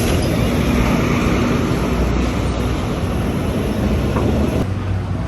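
Loud, steady rumble of motor vehicles with a faint steady hum over it. The higher hiss drops away abruptly near the end.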